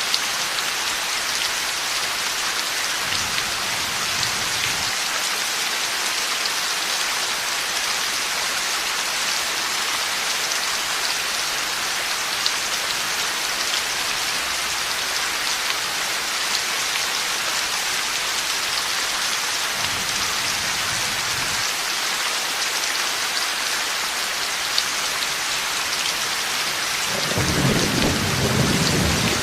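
Heavy rain falling steadily, with two faint low rumbles of thunder a few seconds in and around twenty seconds, then a louder roll of thunder starting near the end.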